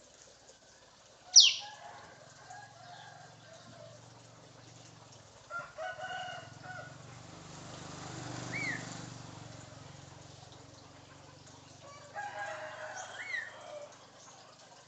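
African grey parrot calling: one loud, sharp falling whistle about a second in, then two bouts of rooster-like crowing calls with short rising whistles, the parrot's mimicry.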